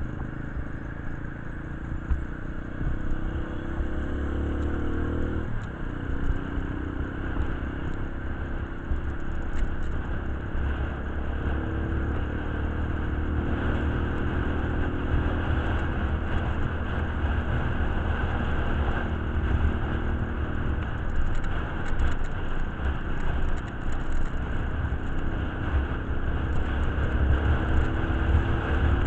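A motor vehicle's engine running, its pitch slowly rising and falling over a steady low rumble.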